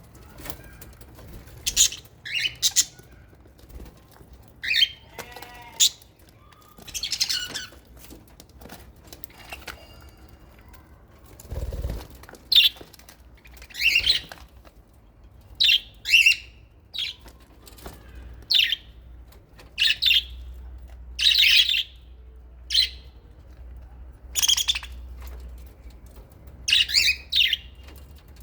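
Aviary lovebirds and budgerigars giving short, high-pitched chirping calls every second or two, irregularly, with bursts of wing flapping.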